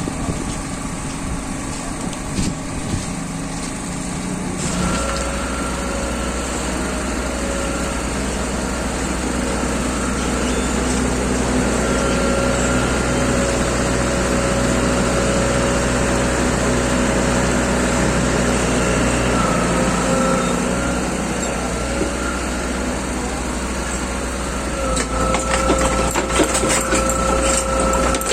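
A small engine running steadily. It becomes louder and fuller about five seconds in, and a rapid rattling clatter joins it near the end.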